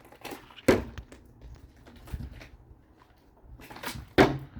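Two sharp knocks, one about a second in and one near the end, over faint background noise.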